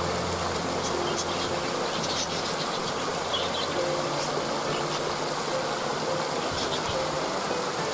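Waterfall rushing steadily, with soft background music of long held notes underneath and a few short bird chirps.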